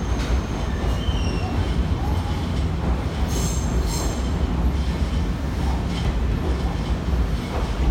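Nankai electric train moving slowly through Namba station's tracks, with a steady low rumble of running gear. Short high-pitched squeals of steel wheels on rail come about a second in and again, louder, between three and four seconds in.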